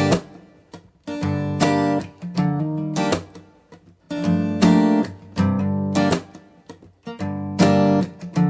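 Background music: a strummed acoustic guitar playing a steady, repeating chord pattern.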